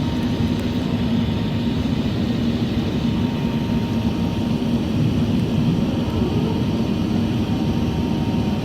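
Steady jet engine and airflow noise of an Airbus A380-800 heard inside the passenger cabin during the climb after takeoff, a constant low rumble with a faint steady whine above it.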